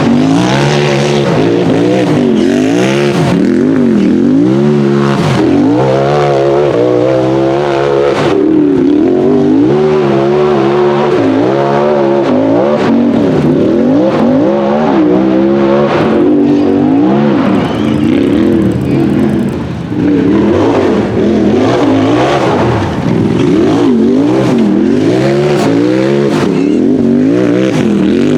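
Turbocharged Polaris RZR buggy engine revving hard on and off the throttle, its pitch rising and falling every second or so, with a short lift near the middle.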